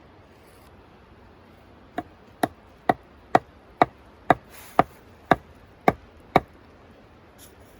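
Ten sharp, ringing blows of a hand tool, about two a second, starting about two seconds in.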